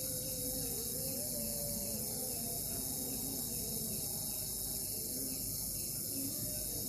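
Crickets chirping in a steady, dense, high-pitched chorus.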